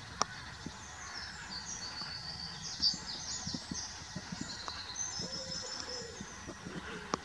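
Songbird singing a fast, continuous jumble of high twittering notes, with a few faint sharp clicks.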